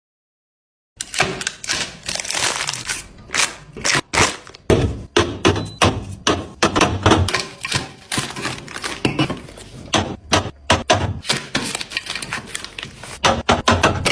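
Busy irregular clicking, tapping and clattering of small hard items being handled and set down, starting after about a second of silence.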